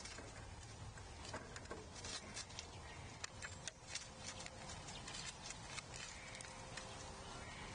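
Faint, irregular light clicks and taps of animals feeding at a platform feeder, over a low outdoor background.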